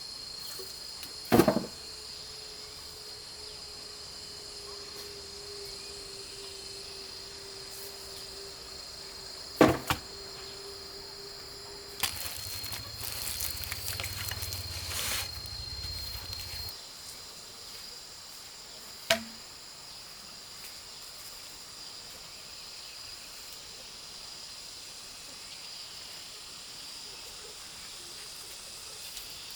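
Steady high drone of insects, broken by three sharp knocks several seconds apart and a few seconds of rustling and low thumping around the middle.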